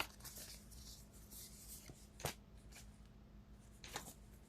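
Faint rustling and handling noises, with two sharp taps or clicks, one a little over two seconds in and one near the end.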